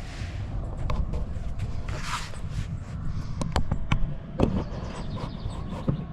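Handling noise as a yoga mat is fetched and laid out: a swish and a series of sharp knocks and clicks over a steady low rumble.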